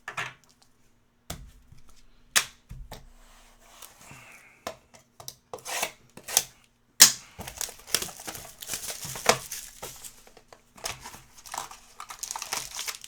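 Foil trading-card packs being torn open and their wrappers crinkled, with sharp clicks and snaps as the cards are handled; the crackling gets busier about halfway through.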